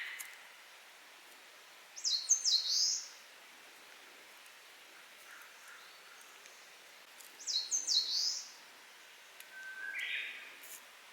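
Eastern crowned warbler singing: two short high song phrases about five seconds apart, each a quick run of notes ending in a broader buzzy note. A fainter, lower bird call sounds at the start and again near the end, over a steady outdoor background.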